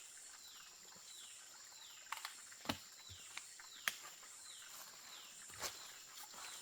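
Forest ambience: a high falling animal call repeats about every half second or so over a steady high-pitched drone. A few sharp knocks or snaps sound, the loudest near the middle.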